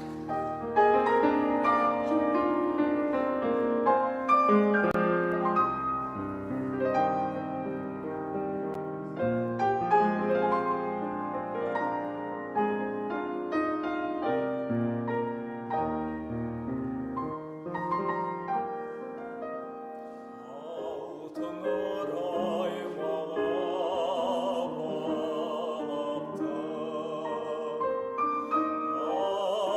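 Piano accompaniment playing an introduction alone; about two-thirds of the way in, a classically trained male voice enters, singing with vibrato over the piano.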